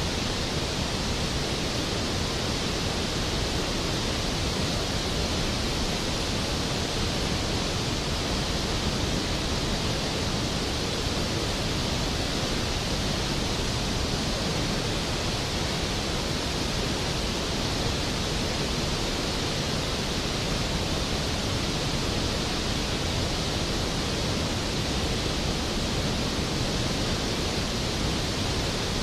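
Skógafoss waterfall: a large waterfall's plunge, a steady, dense rushing roar of falling water with no change throughout.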